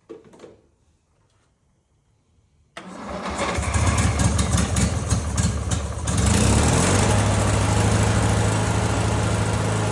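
Riding lawnmower's small engine cranking over about three seconds in, catching within a few seconds and settling into a steady run. It fires up quickly for an engine that had been dead.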